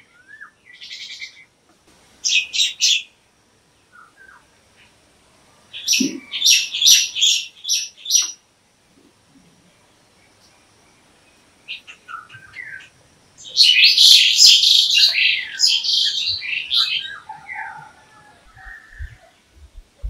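Birds chirping in several short bursts of rapid, high notes, with quiet gaps between. The longest and loudest burst comes a little past the middle.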